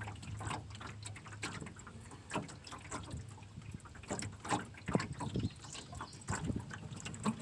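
Water sloshing and lapping, with scattered irregular small knocks and clicks.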